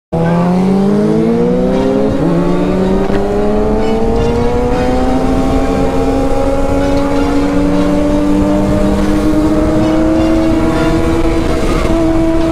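Sport motorcycle engine accelerating under load: the pitch rises for about two seconds, dips at a gear change, then climbs slowly and settles into steady high revs, with a rough rush of wind and road noise underneath.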